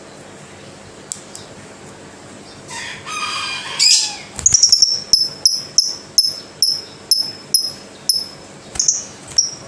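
Lovebird calling: a harsh call sliding downward about three seconds in, then a run of sharp, high chirps repeated about twice a second.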